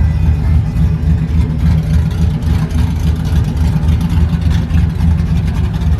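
1998 Mustang GT's 4.6-litre V8 fitted with a stage 2 Comp cam, running steadily and loudly with a choppy, uneven exhaust pulse.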